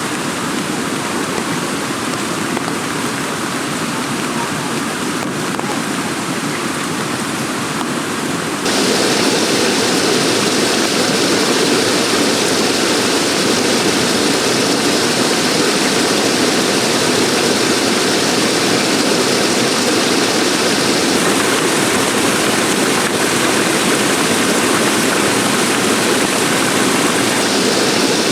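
Heavy rain pouring down in a steady, dense hiss, jumping abruptly louder about nine seconds in.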